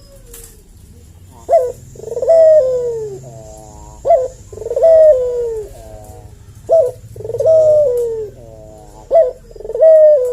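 Ringneck (Barbary) dove cooing: four calls about two and a half seconds apart, each a short clipped note followed by a longer coo that falls in pitch.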